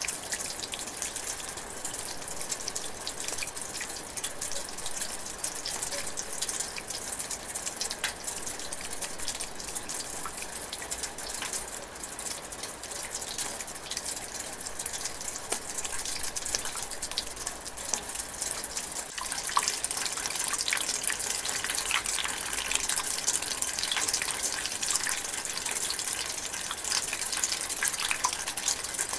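Light drizzling rain falling steadily, with many separate drops and drips ticking through it. It gets a little louder about two-thirds of the way through.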